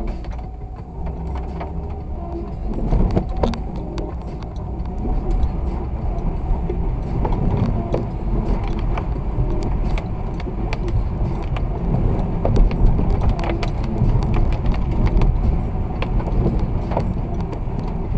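Car driving on a snowy road: a steady low rumble of road and engine noise, with frequent small clicks and knocks through it.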